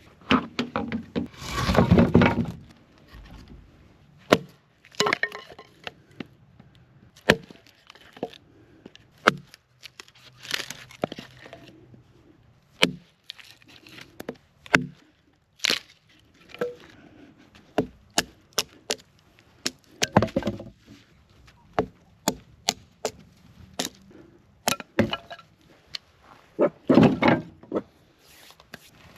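Sticks and dry wood being snapped and broken up, with many sharp, irregular cracks and a few longer crunching breaks.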